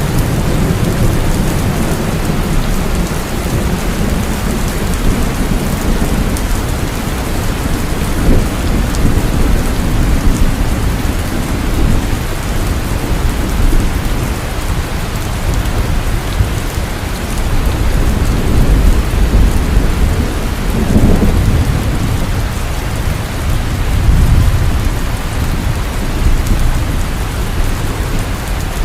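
Heavy, continuous rain with low rolling thunder rumbling underneath, swelling louder a few times, most strongly about two-thirds of the way through.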